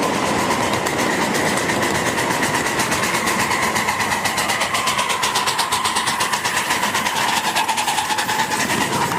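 A vehicle running, with a steady whine and a fast, even clatter.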